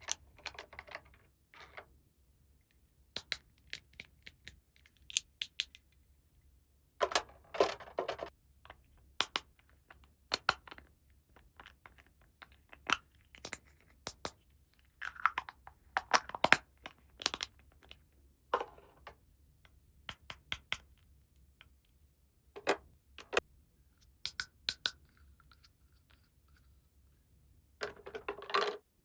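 Small plastic toy pieces being unboxed and handled, making scattered sharp clicks and taps, with a few short bursts of tearing or crinkling packaging.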